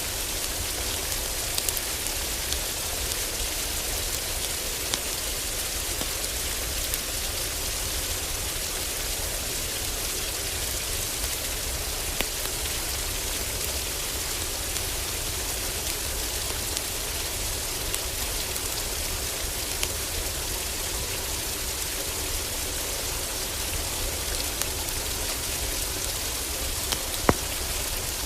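Heavy rain falling steadily on a cabin roof, with scattered sharp pops of a crackling wood fire in a fireplace; the loudest pop comes near the end.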